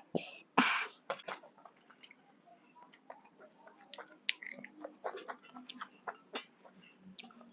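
Close-up chewing and small wet mouth clicks of a person eating, with a couple of short sharp breaths in the first second.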